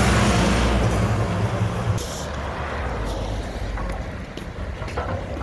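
Mack garbage truck's diesel engine passing close, loud for about two seconds and then falling away as it goes by, with a brief hiss about two seconds in.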